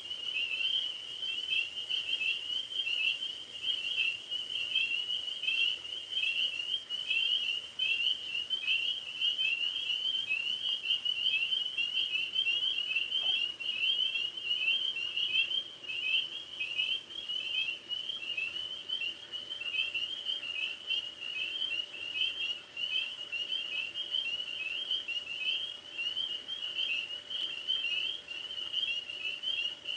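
Chorus of tree frogs calling: a dense, unbroken run of short high chirps, several a second, overlapping into a steady pulsing trill.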